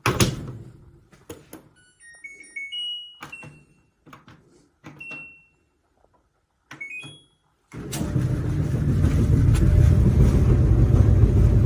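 Clicks and knocks of handling, then electronic control-panel beeps from a clothes dryer: short chirps stepping up in pitch as its buttons are pressed. About eight seconds in, a loud steady rumble starts and keeps going.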